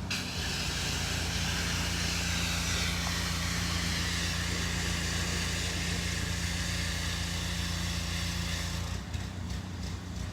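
Car engine idling with a steady low hum. A loud hiss lies over it and cuts off about nine seconds in.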